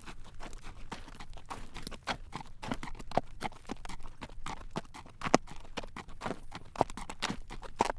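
Horse's shod hooves clip-clopping on a paved road at a walk while it draws a carriage, with a low rumble under the hoofbeats; a few hoofbeats ring out louder than the rest.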